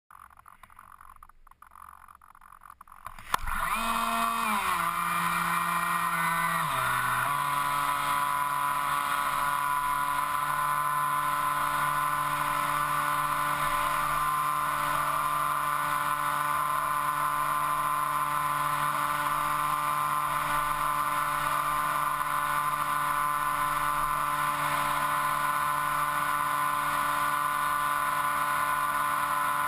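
Electric motor and propeller of an FPV model aircraft, heard from the onboard camera. After a few seconds of faint noise and a click, the motor starts with a whine whose pitch steps down twice over the next few seconds, then runs on at a steady pitch.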